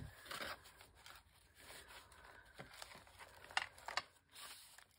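Paper being handled at a craft table: intermittent rustling and light taps, with a few sharper clicks.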